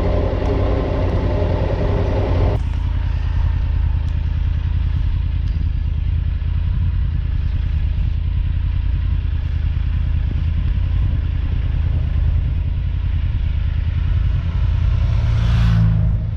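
Motorcycle engine running steadily while riding, with a constant rush of road noise. About two and a half seconds in the engine note softens, and near the end a brief rising rush of sound comes in.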